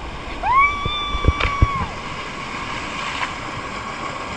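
One high, held yell of about a second and a half, rising at the start and dropping away at the end, over the steady rush of a waterfall. A few low thumps come under the yell.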